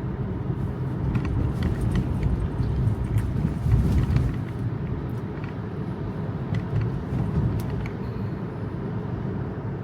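Road and tyre noise inside a Tesla's cabin on a wet road: a steady low rumble with faint scattered ticks.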